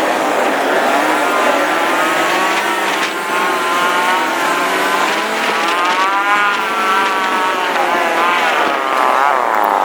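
Motorcycle engines in traffic while riding, several revving at once, their pitch rising and falling with the throttle.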